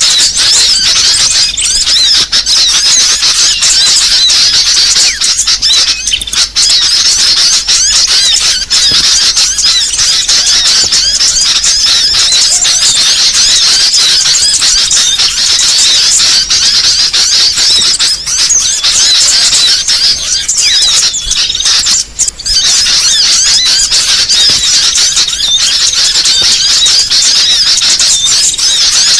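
Loud, dense, non-stop chirping and twittering of many small birds, a bird-lure recording used to draw small songbirds in.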